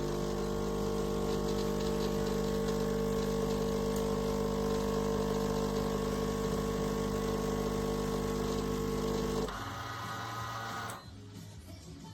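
Krups Sensation C50 bean-to-cup coffee machine running: a steady motor drone that stops abruptly about nine and a half seconds in, followed by a lower, quieter hum for about a second and a half.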